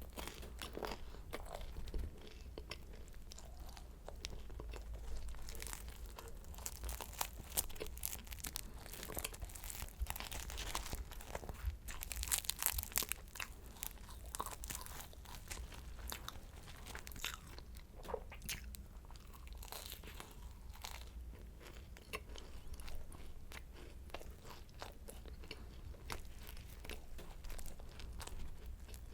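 Close-miked crunching and chewing of flaky croissant pastry: irregular crisp crackles from bites and chewing, busiest about twelve seconds in.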